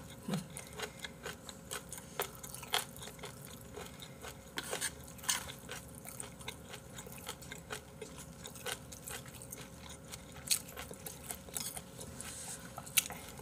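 A person chewing food close to the microphone, with wet mouth sounds and scattered short crunches and clicks.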